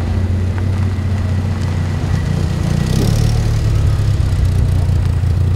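Dodge Viper RT/10's V10 engine running at low speed as the car creeps by, a steady deep rumble. About three seconds in it rises briefly with a touch of throttle, then settles again.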